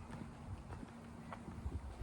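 Footsteps of a person walking at a steady pace, soft low thuds a couple of times a second, over a faint steady hum.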